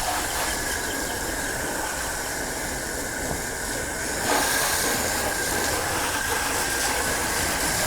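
A jet of water rinsing a car, a steady hiss with a steady high tone running under it; the spray gets louder about four seconds in.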